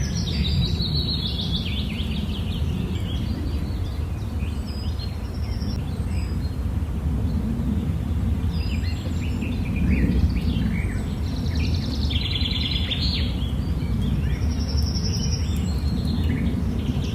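Baby parrot chick calling while being hand-fed with a syringe: scattered short high chirps and a few rapid, buzzy pulsed calls, over a steady low rumble.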